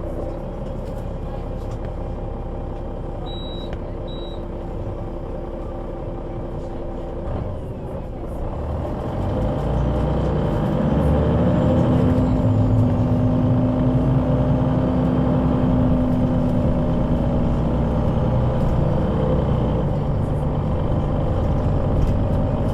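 Solaris Urbino 12 III city bus with a Voith automatic gearbox: the engine idles steadily, with two short high beeps a few seconds in. About eight seconds in the bus pulls away and the engine runs louder under load, with a steady whine through the acceleration.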